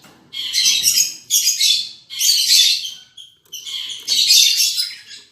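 Lovebirds chattering in loud, high-pitched bursts, about six in a row, each under a second long.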